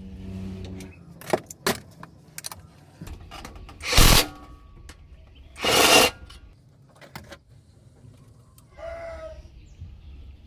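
Mechanic's workshop work on an engine: scattered metal clinks and knocks, with two short, loud hissing blasts about two seconds apart.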